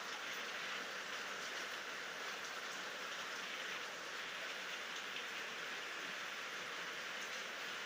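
Steady rain falling at night, an even hiss without thunder or separate drops standing out.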